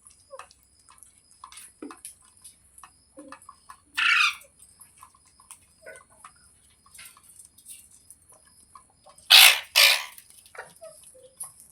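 Green parrot squawking: one loud harsh call about four seconds in and two more in quick succession near the end, with soft chirps and clicks in between.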